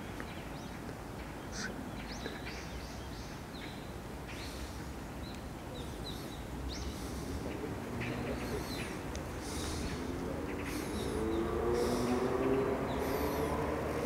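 Birds chirping and calling, with many short high calls scattered throughout, over a steady low background noise. In the second half a wavering lower-pitched sound grows louder.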